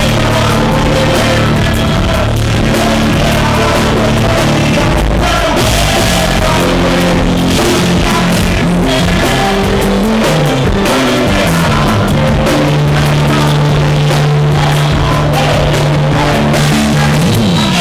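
Live band playing loud rock-styled music with drum kit, guitar and bass under some singing, the recording overloaded and distorted. A long low bass note is held from about twelve seconds in and slides just before the end.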